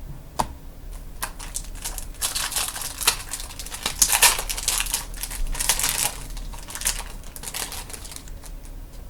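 Trading cards and their packaging being handled: crinkling and rustling with many light clicks, busiest between about two and seven seconds in.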